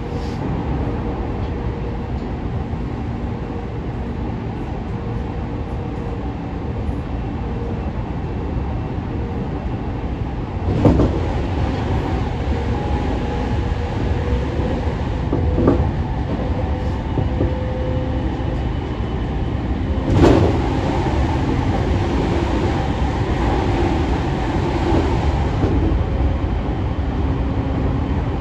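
Running sound inside a JR East E231 series 500 commuter train under way: a steady rumble of wheels on rail with faint steady tones under it. Two louder clatters stand out, about eleven and twenty seconds in, the second followed by a few seconds of added hiss.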